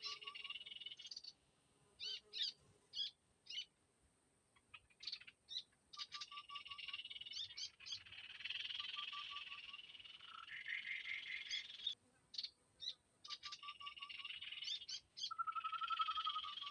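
Small songbirds calling: clusters of short, sharp chirps and buzzy trills, repeated again and again, over a faint steady high whine.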